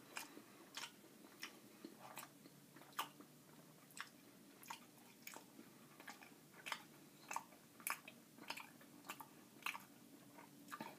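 Mouth chewing a Nature Valley granola bar: quiet crunches about every two-thirds of a second, steady and rhythmic.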